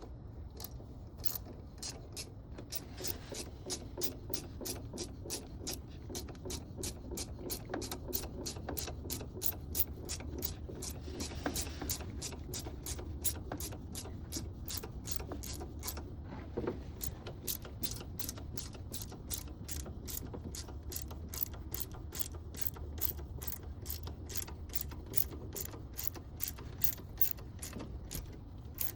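A ratchet clicking steadily, about three clicks a second, as an impeller puller's screw is wound in to draw a stuck rubber impeller out of a marine raw-water pump, with a brief pause about two-thirds of the way through.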